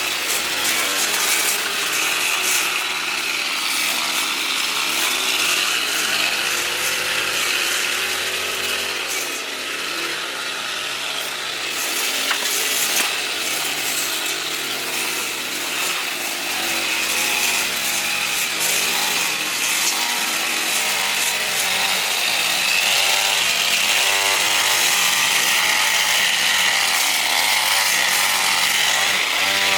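A power tool cutting, its motor running steadily under load throughout.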